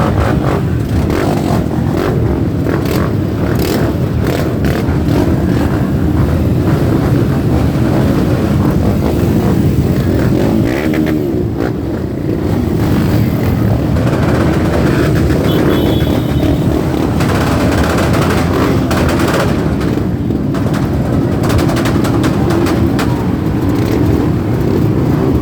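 Many motorcycle engines running together as a group of motorcycles rides off, with individual bikes revving over the steady rumble.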